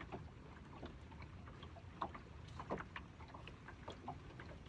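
Quiet ambience aboard a small boat on the water: a low steady rumble of water and wind, with a few faint scattered knocks and splashes.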